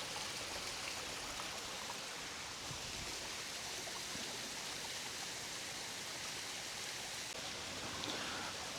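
Small creek waterfall: a steady rush of running water.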